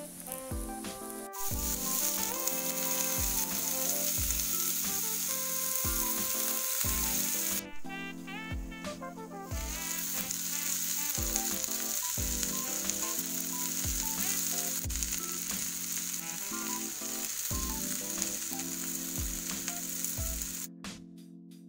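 Sliced carrots, potatoes and zucchini sizzling loudly as they fry in a pan. The sizzle breaks off for about two seconds near the middle, then resumes. Background music with a steady beat plays throughout.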